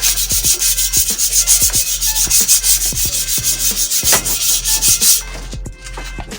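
Sandpaper rubbed by hand on a stripped metal bike frame in quick back-and-forth strokes, a rasping hiss, to finish removing the old paint. The sanding stops about five seconds in.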